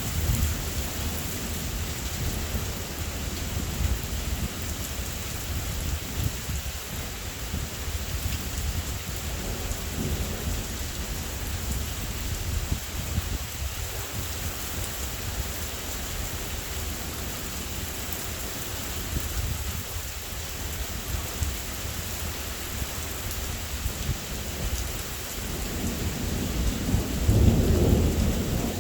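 Steady thunderstorm rain with low rolling thunder underneath; a louder peal of thunder builds near the end.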